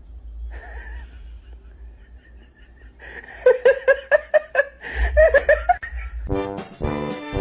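A person laughing hard in quick, repeated bursts for about two seconds. Music starts near the end.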